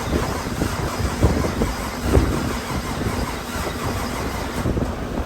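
A 2017 Camaro SS 1LE's rebuilt 6.2-litre LT1 V8 running, with a deep, uneven exhaust rumble.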